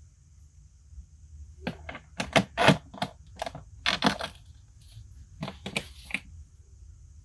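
Hands handling the boxed sixth-scale figure and its packaging: a run of sharp clicks and taps starting about a second and a half in, thickest around the middle and ending about six seconds in.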